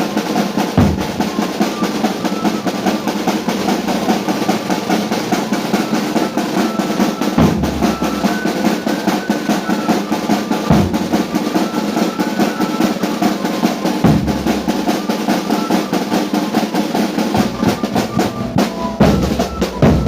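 Drum-led music: rapid, continuous snare-drum rolls with an occasional bass-drum beat, under a simple high melody that moves in steps.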